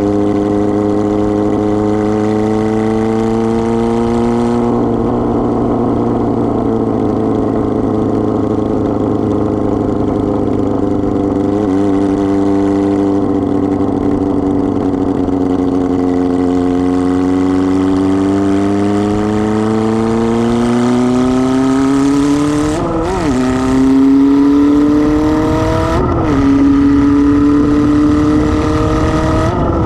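Kawasaki ZR-7's air-cooled 750cc inline-four running without its exhaust muffler as the bike is ridden, the engine note slowly falling and rising with speed. Near the end, quick breaks in the note come three times, the first dropping it to a lower pitch, like gear changes.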